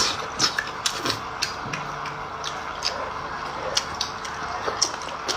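A person chewing and smacking while eating hot pot, with irregular wet clicks from the mouth over a steady hiss.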